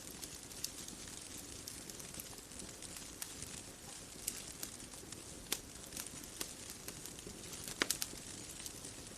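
Wood fire crackling: scattered sharp pops and snaps over a steady soft hiss, with the loudest cluster of pops near the end.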